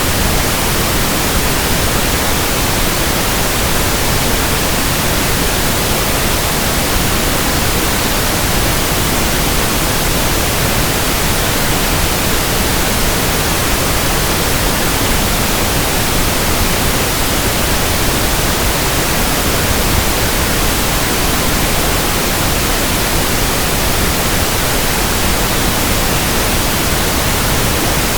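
Pink noise: a steady, unchanging hiss spread evenly across the whole range, with no variation or events.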